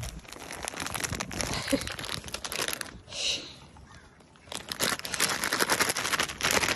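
Dense crinkling and crackling rustle in two stretches, with a quieter pause of about a second and a half in the middle.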